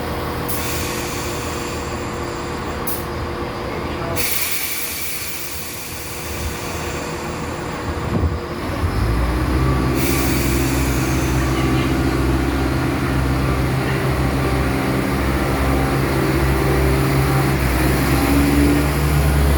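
A train running: a steady rumble at first, then about nine seconds in a louder, low drone with steady tones sets in and holds.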